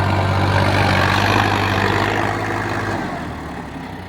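Tractor diesel engine running hard and steadily, as in a tractor pulling contest, easing off about three seconds in.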